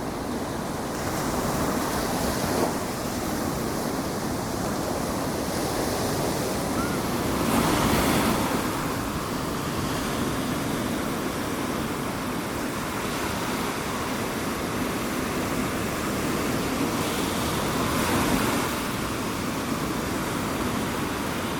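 Ocean surf washing on a beach in a steady rush, with waves breaking louder about 8 seconds in and again near 18 seconds.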